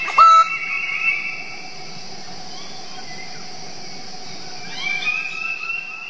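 A bird-of-paradise gives one loud call right at the start, over a steady high-pitched forest hiss. A new run of bird calls comes in near the end.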